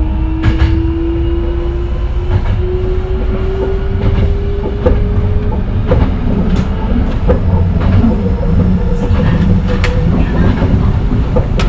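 Hankyu 9000 series electric train running on its line, with a rumbling ride and scattered clicks of the wheels over the rail. A faint whine from the traction motors rises slowly in pitch as the train gathers speed, then fades out.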